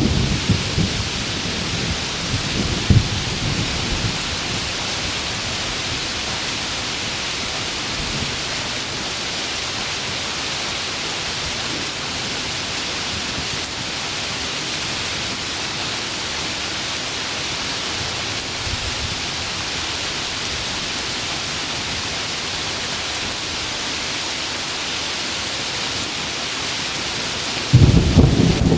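Heavy rain pouring steadily, with thunder. A rumble dies away over the first few seconds, with one sharp crack about three seconds in, and a loud clap of thunder breaks suddenly near the end.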